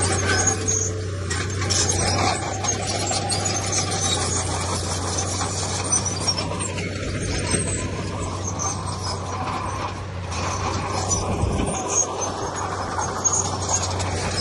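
Komatsu D31P bulldozer working: its diesel engine runs steadily under load while the steel tracks squeal and clatter.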